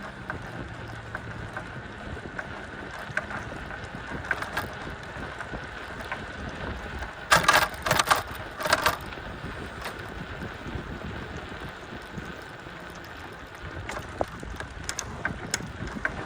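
Wind rushing over the microphone while riding a bicycle down a trail, with scattered clicks and a few loud, harsh bursts about halfway through.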